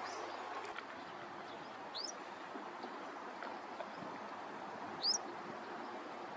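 A wild bird giving a short, high, upward-sweeping call twice, about three seconds apart, with fainter chirps from other birds.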